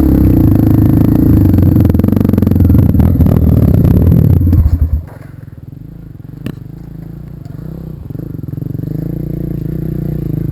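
Off-road vehicle engine running loud and close, dropping away suddenly about five seconds in; a quieter engine then grows steadily louder as it approaches.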